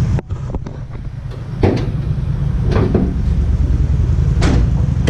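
Three sharp clunks spread a second or more apart over a steady low rumble, with a sudden break in the sound just after the start.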